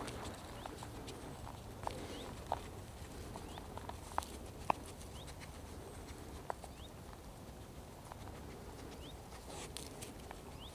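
Quiet forest ambience with a few scattered soft clicks and ticks and faint short, high rising chirps.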